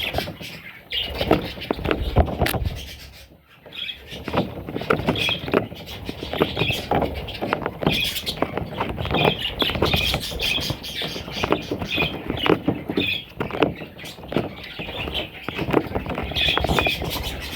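Budgerigar chicks cheeping in short repeated bursts, over many clicks and knocks.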